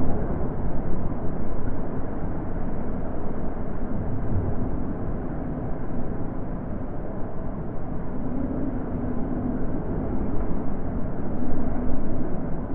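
Wind blowing steadily, a low dull rush that rises and eases in gentle gusts, swelling a little about two-thirds of the way through and again near the end.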